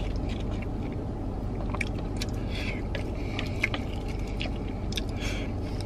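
Chewing and mouth sounds of someone eating a poke bowl, with short clicks and scrapes of wooden chopsticks against a plastic bowl, over a steady low hum.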